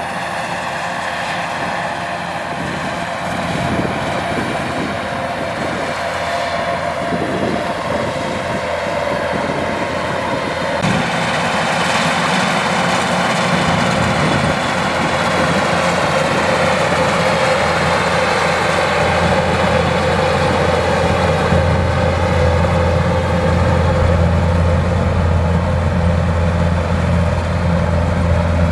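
Kubota DC105X rice combine harvester running steadily, its diesel engine growing louder about ten seconds in and adding a strong low hum in the last third.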